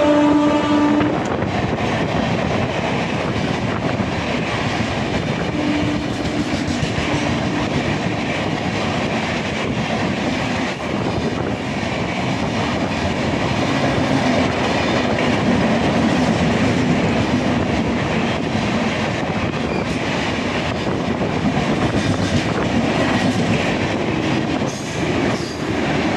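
Express train hauled by a WAP-4 electric locomotive passing at speed: a steady, loud rush of coaches and wheels running over the track. The tail of the locomotive's horn dies away about a second in.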